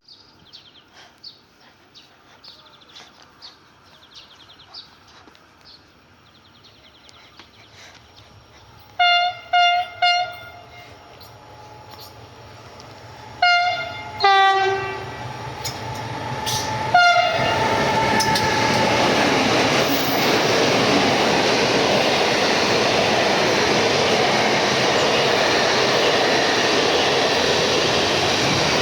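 Train horn sounding three short blasts in a row, then two more and a final one a few seconds later as the train approaches. The train then passes close by with a loud, steady rush of wheel and rail noise.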